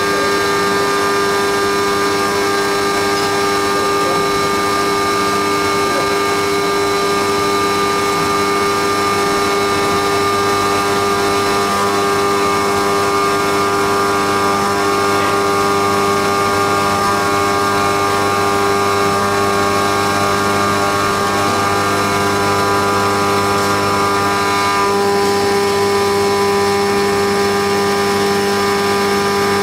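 Haas CNC milling machine running steadily while machining a cam on a 4th-axis rotary indexer: a continuous machine hum and whine made of several steady tones, which shift slightly about 25 seconds in.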